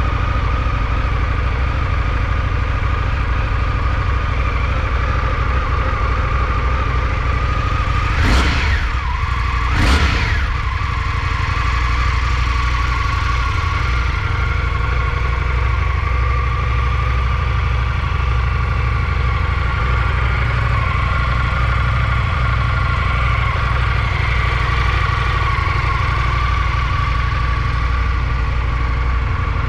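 2024 Indian FTR R Carbon's 1203 cc V-twin engine idling steadily, with two quick throttle blips about eight and ten seconds in.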